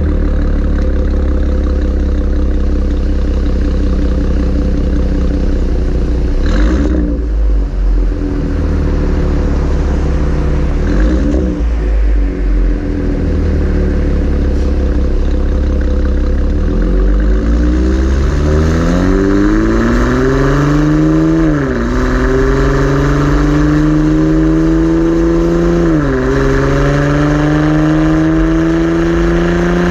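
2016 Camaro's 3.6-litre V6 through a Borla ATAK axle-back exhaust, first cruising with a steady drone, then accelerating through the gears in the second half: the pitch climbs, drops at two upshifts and climbs again.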